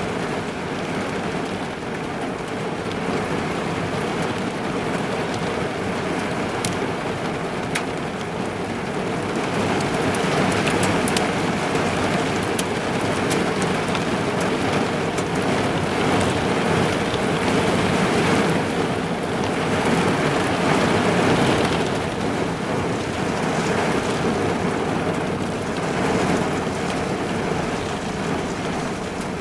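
Heavy rain drumming on a car's roof and windows, heard from inside the car, with sharp drop impacts here and there. The downpour swells louder through the middle and eases a little near the end.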